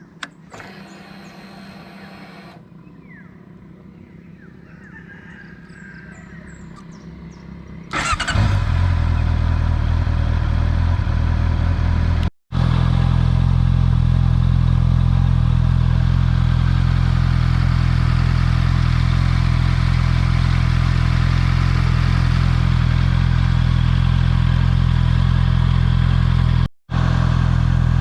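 Honda CB650R inline-four on its stock exhaust starting about eight seconds in, then idling steadily. A faint whir lasting about two seconds comes in the first seconds, and the sound cuts out briefly twice.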